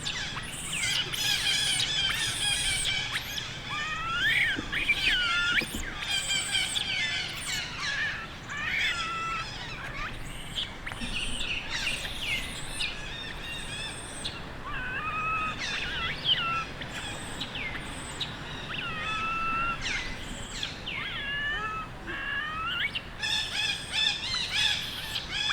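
Baby long-tailed macaque crying: many short, high, wavering calls that rise and fall in pitch, coming in quick series.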